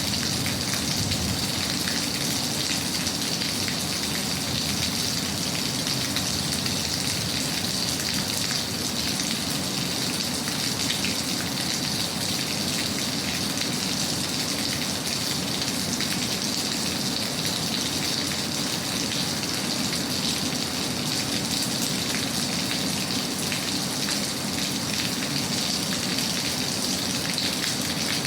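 Steady rain falling, an even hiss of many drops with faint scattered ticks, unchanging throughout.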